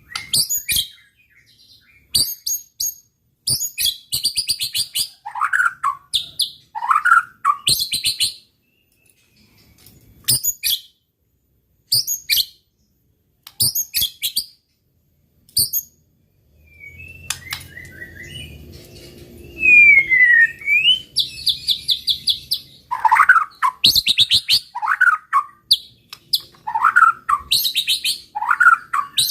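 White-rumped shama (murai batu) singing in loud bursts of varied phrases: high rapid trills mixed with short whistled slurs. There is a pause of a few seconds partway through, and a clear falling whistle about two-thirds of the way in.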